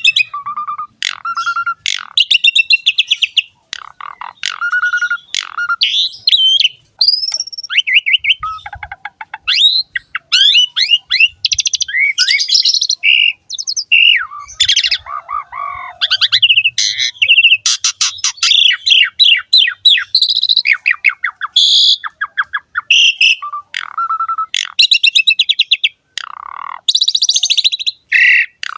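Asian pied starling (jalak suren) singing a long, varied song: clear whistled notes, fast rattling trills and harsh chattering phrases follow one another with barely a pause.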